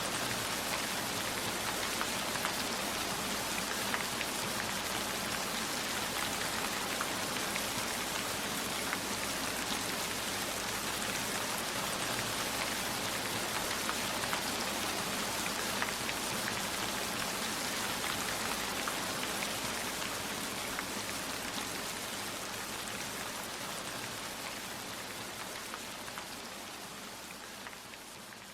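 Steady rain falling, with scattered drops ticking on a surface; it fades out gradually over the last several seconds.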